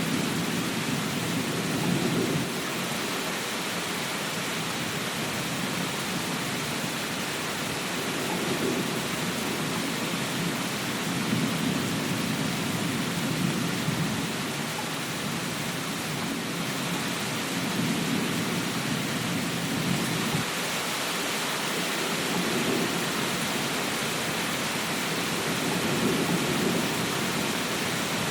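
Steady rain hiss, with a low rumble that swells and fades every few seconds.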